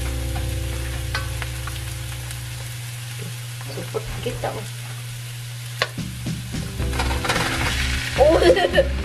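Onion and garlic sizzling in a wok as they are stirred with a wooden spatula, with a few sharp clicks of the spatula against the pan. Near the end, meat is tipped into the hot oil and the sizzling grows louder and fuller.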